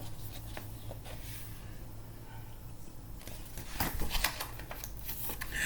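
Quiet room tone with a low steady hum, and a few faint rustles and clicks about four seconds in.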